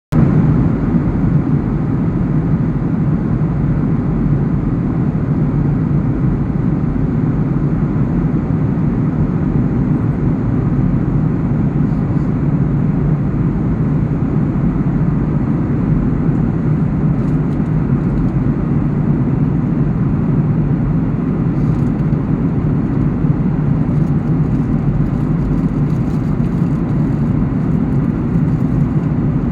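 Passenger jet's cabin noise in flight: the steady low noise of engines and airflow, even throughout, with a few faint ticks near the end.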